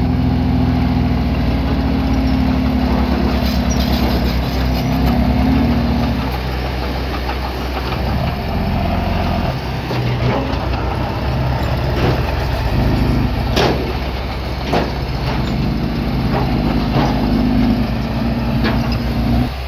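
Heavy-equipment diesel engine running steadily, with a higher steady tone that drops out about a third of the way in and comes back near the end. Several sharp knocks sound in the second half.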